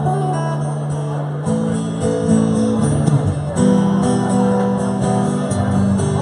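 Live band music, an instrumental passage of strummed guitar with chords changing every second or two and no singing.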